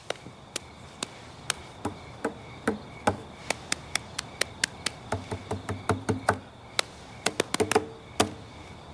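Paw tapping played as a rhythm: a run of sharp taps, a few a second, with some lower, pitched knocks mixed in around the middle and near the end.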